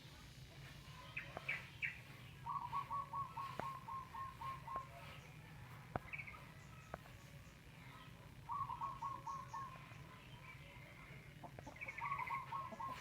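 A bird calling in quick runs of repeated short notes, about three or four a second, in three bouts, with a few higher chirps in between. A low steady hum runs underneath.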